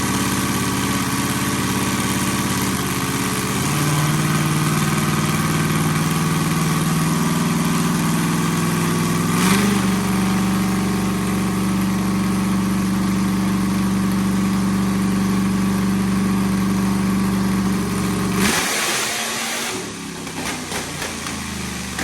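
Texas Speed 408 cubic-inch stroker V8 with open 'zoomies' headers running under part throttle on a partial pull while the air-fuel ratio is checked. Its pitch steps up twice and holds, then the throttle comes off about three-quarters of the way through and it falls back to a lower rumble.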